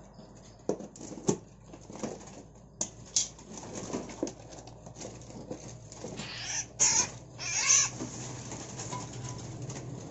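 Small caged songbirds fluttering and flapping their wings, with scattered light knocks and scratches and two louder bursts of rustling flapping about two-thirds of the way in.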